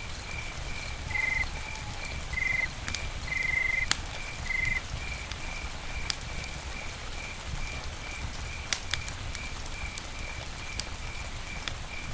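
Campfire crackling with scattered sharp pops over a low rumble, while a cricket chirps steadily at about two chirps a second. Four short, brighter trills come in the first five seconds.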